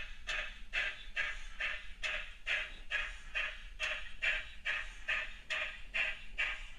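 Model steam locomotive sound decoder in an OO gauge GWR 57xx pannier tank, playing a steady, even exhaust chuff of about two and a half beats a second as the engine moves at low shunting speed.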